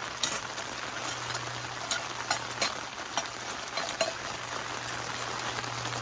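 Light rain: a soft hiss with scattered single drops ticking sharply on a surface, over a faint steady low hum.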